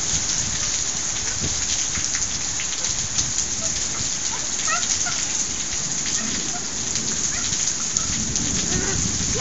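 Heavy rain coming down hard, a steady even hiss of rainfall.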